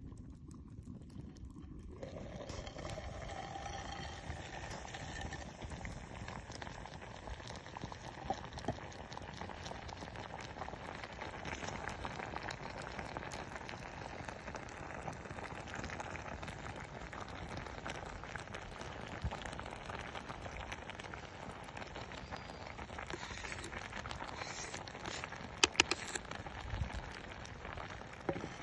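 Wood fire crackling and hissing steadily, dense with small pops, starting about two seconds in, with a few sharp louder cracks near the end.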